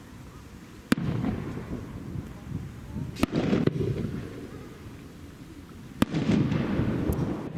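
Aerial fireworks shells bursting three times, about two and a half seconds apart, each a sharp bang followed by a low rumbling echo that lasts about a second.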